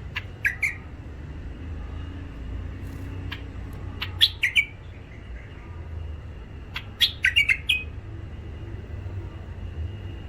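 Caged wild-caught bulbuls giving short, harsh chirps in three quick clusters: about half a second in, about four seconds in, and about seven seconds in, over a low steady rumble.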